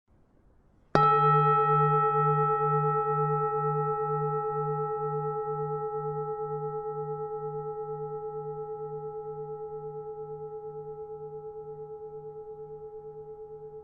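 A Buddhist bowl bell (singing bowl) struck once about a second in, then ringing on with several steady tones, its lowest tone pulsing slowly, fading gradually.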